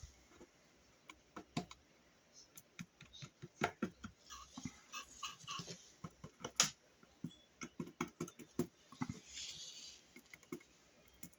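Small irregular clicks, taps and rustles of hands pressing a subwoofer's surround down onto its glued basket rim.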